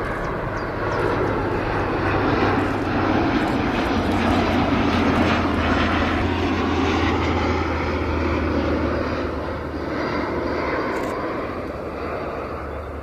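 Jet airliner engines: a steady rushing noise with a low hum beneath it, growing louder over the first two seconds and easing off in the last few.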